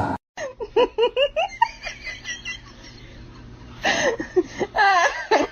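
High-pitched laughter: a quick run of short giggling bursts, then a quieter stretch, then more laughter near the end.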